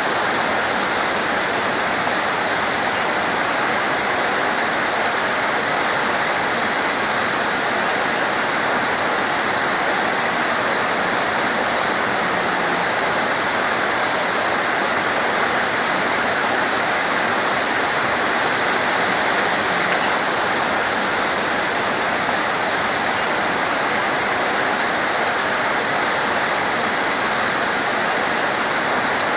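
Torrential rain falling as a steady, dense hiss with no let-up, a single faint tick about nine seconds in.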